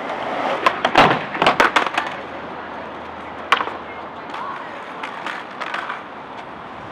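Skateboard clattering: a quick run of sharp clacks and knocks about a second in, one loud clack midway, then lighter knocks over a steady rolling rush.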